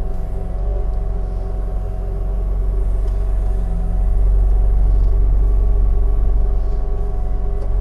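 A motor engine running steadily at a constant speed with a deep rumble, growing a little louder about halfway through.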